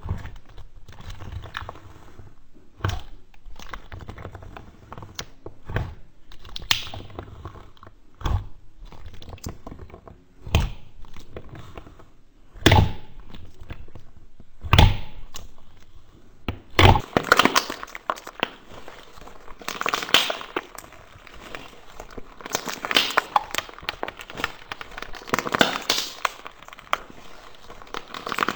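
Slime being squeezed and pressed by hand: sharp pops and clicks every second or two, then, a little past halfway, a denser run of crackling.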